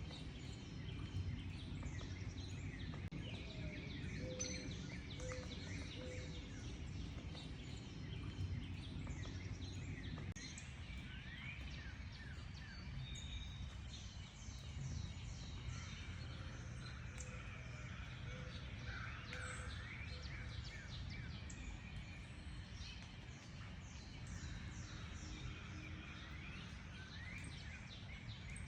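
Many small birds chirping and calling, with quick rising and falling notes overlapping throughout, and a few short low notes a few seconds in, over a steady low rumble of background noise.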